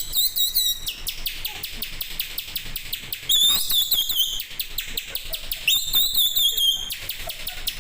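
A man imitating bird chirping with his mouth: rapid high-pitched chirps and trills in three louder bursts, with quick ticking chirps in between.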